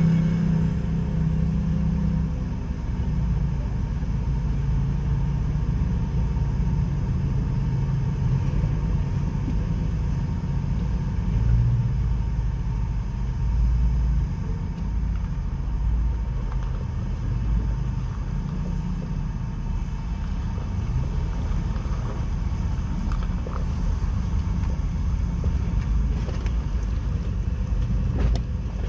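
Jeep Wrangler engine running at low revs, steady with small rises and falls, while crawling up a rocky off-road hill.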